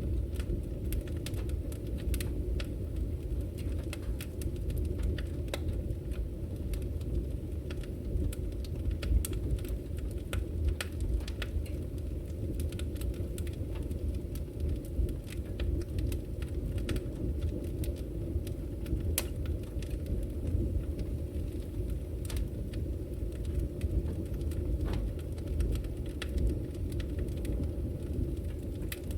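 Wood fire in a fireplace crackling: irregular sharp pops and snaps scattered over a steady low rumble.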